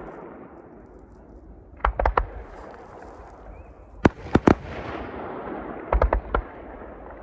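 Fireworks display: aerial shells bursting in quick clusters of three or four sharp bangs, a cluster about every two seconds, over a continuous rumble.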